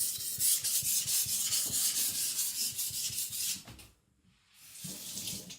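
Steel knife blade being stroked back and forth across a whetstone in rapid, even strokes: the scratchy rasp of sharpening. The strokes stop a little before four seconds in, then a short run of strokes follows near the end.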